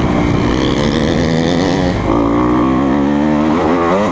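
Single-cylinder four-stroke engine of a 2020 Kawasaki KX250F dirt bike running hard under the rider. Its pitch changes with throttle and gears: it dips briefly about two seconds in, then climbs near the end.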